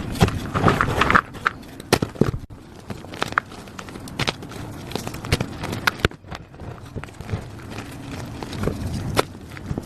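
Plain gym chalk being crushed by hand: crisp crunching and crumbling, thick in the first second or so, then scattered cracks and crackles, with one sharp snap about nine seconds in.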